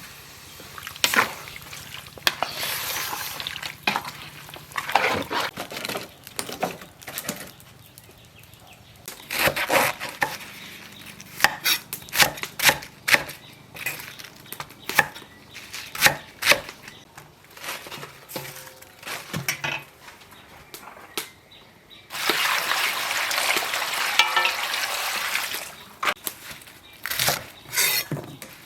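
Food being stir-fried in a pan: a utensil repeatedly knocking and scraping against the pan, with stretches of loud sizzling, the longest of them near the end.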